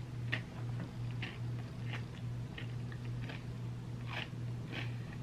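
Close-miked chewing of ice cream sundae, with short wet mouth clicks and smacks every half to one second over a steady low hum.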